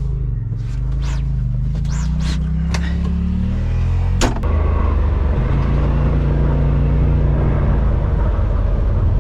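Side-by-side UTV engine running close by, its pitch climbing gradually for the first few seconds. A sharp click comes about four seconds in, and the engine then holds a steady, lower note.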